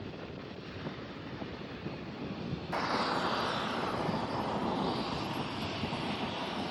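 Airliner engine noise without speech. A low, steady rumble with wind on the microphone gives way abruptly, a little under three seconds in, to a louder, fuller engine roar that slowly falls in pitch.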